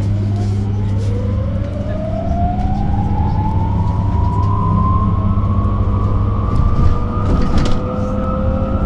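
Electric bus traction motor whining as the bus accelerates, several pitched tones rising slowly and steadily in pitch over a steady low hum.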